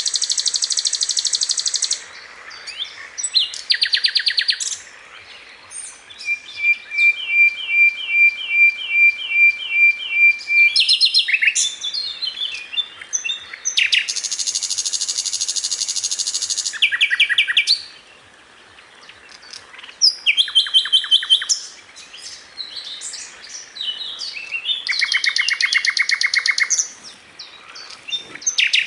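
Sikatan londo flycatcher singing a varied, rapid song of buzzy trills and chirping phrases with short pauses between them, as used for masteran training. One phrase midway is a run of about ten even chirps, roughly two a second.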